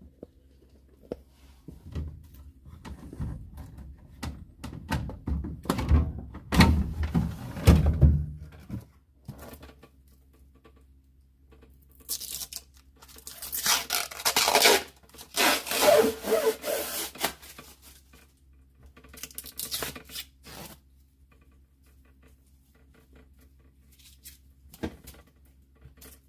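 Hands rubbing and scraping on the refrigerator's panels and fittings while packing pieces and tape are removed. A stretch of low handling knocks is followed by bursts of brighter scraping and peeling noise.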